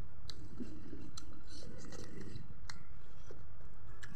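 Close-up chewing with wet mouth smacks and a few sharp clicks, about one a second, over a steady low background rumble.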